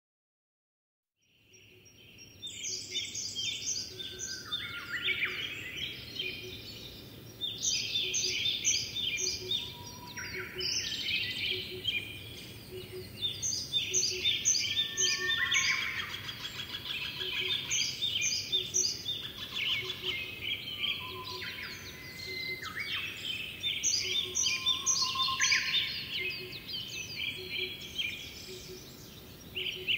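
Several songbirds singing and chirping together in quick runs of repeated high notes. The chorus fades in from silence over the first two seconds, over a faint background hum of outdoor noise.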